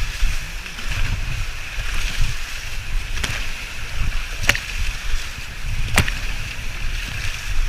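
A canoe on a fast-flowing river, with a steady rush of water over a low rumble. Sharp knocks come three times in the middle of the stretch, about a second and a half apart.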